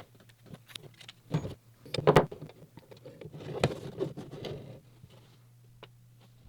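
Handling sounds in a workshop: a series of knocks, clicks and scrapes, the loudest about two seconds in and again past three and a half seconds, over a steady low hum.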